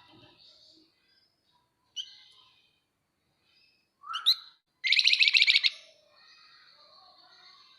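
Javan fulvetta (flamboyan) calling. A short note comes about two seconds in and a quick rising note at about four seconds. Then comes the loudest part, a rapid chattering trill lasting about a second, followed by faint high twittering.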